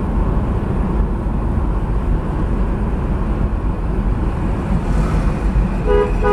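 Steady road and engine rumble of a car, as picked up by a dashcam. Near the end, a car horn starts honking.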